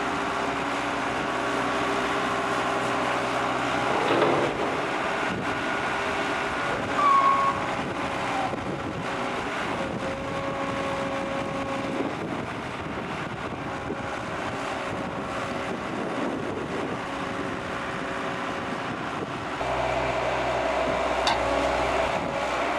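Diesel engine of a 2005 Gehl 7810 skid steer loader running steadily, with a few brief sliding tones, and running louder and deeper near the end.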